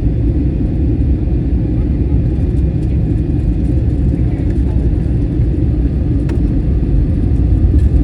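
Steady cabin noise of an Airbus A321 airliner in flight: a loud, even, low rumble of engines and airflow heard from a passenger seat.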